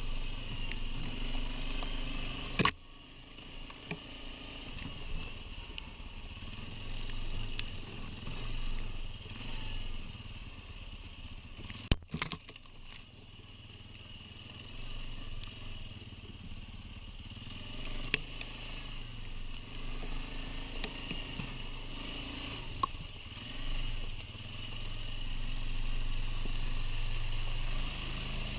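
Quad bike (ATV) engine running while riding, its level dropping a few seconds in and picking up again near the end, with a few sharp knocks, the loudest about two and a half and twelve seconds in.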